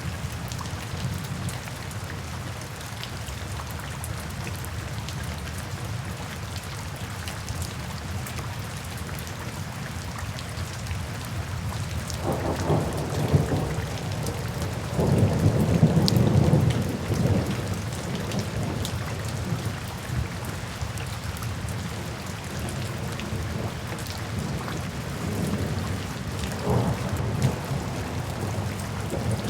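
Steady rain falling, with a roll of thunder rumbling in about twelve seconds in and peaking a few seconds later, then a fainter rumble near the end.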